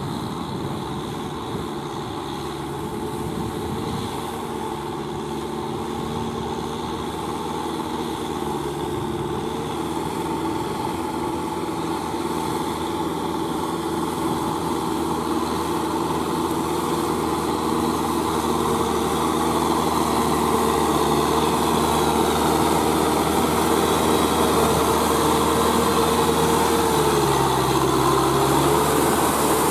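Kubota M6040SU four-wheel-drive tractor's diesel engine running steadily under load while rotary tilling wet, sticky paddy soil, growing gradually louder as it comes closer. Near the end the engine note dips briefly and picks up again.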